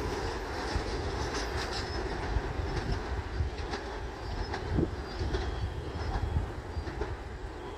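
Long Island Rail Road commuter train running past on the Main Line, a steady rumble with scattered sharp clicks and knocks from the wheels, easing off slightly near the end.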